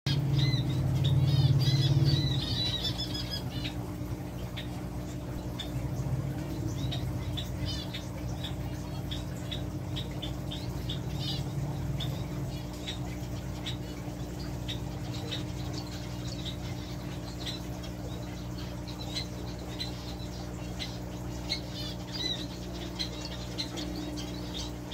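Small birds chirping in quick, repeated high notes, most densely in the first few seconds, over a steady low electrical hum.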